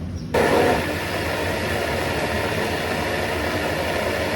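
An engine running steadily at a constant pitch, starting abruptly about a third of a second in.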